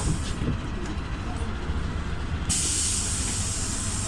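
PAZ 320414-04 Vector bus's YaMZ-53423 engine, running on compressed natural gas, with a steady low drone heard inside the cabin. A high hiss drops away for about two seconds and cuts back in suddenly about halfway through.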